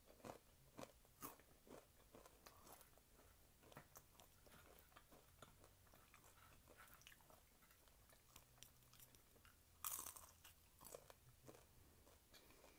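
Close-up chewing of crispy fried taquitos. Short crunches come through the first few seconds, softer chewing follows, and one louder crunching bite lands about ten seconds in.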